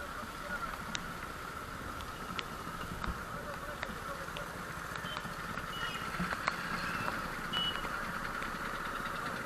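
Steady hiss of road traffic, with scattered faint clicks and a few short, high-pitched tones about halfway through.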